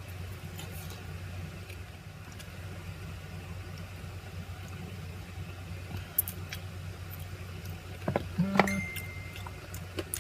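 A steady low electrical hum, with a few small clicks and crackles in the second half from handling and eating grilled chicken by hand.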